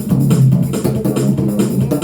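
Electric bass guitar playing a gospel bass line in the low register, over music with a steady beat.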